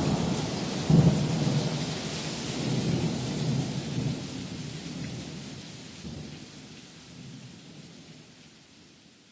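Rain and thunder with rolling low rumbles and a sharper thunderclap about a second in, the whole fading steadily out to silence.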